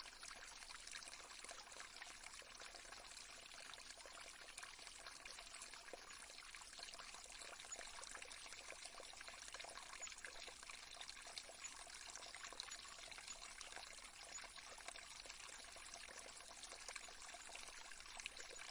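Faint, steady trickle of flowing water, like a gentle stream.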